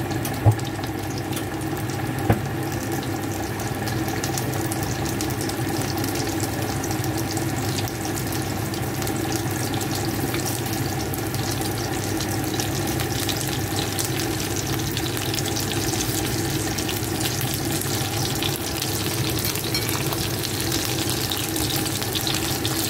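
Green pepper pieces stuffed with minced pork frying in oil in a nonstick pan: a steady sizzle with fine crackles over a constant low hum. Two short knocks stand out, about half a second and two seconds in.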